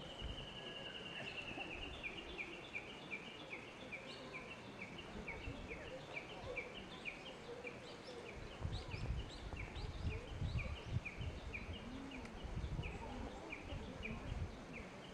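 A songbird calling in a fast, unbroken run of short chirps, about three or four a second, opening with a brief held note.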